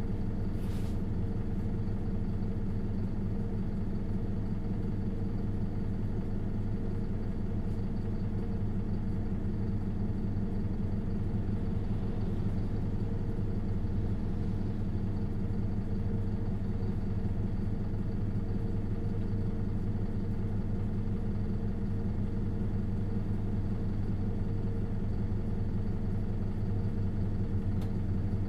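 Isuzu Erga LV290N1 city bus's four-cylinder diesel engine running with a steady drone that holds one pitch throughout.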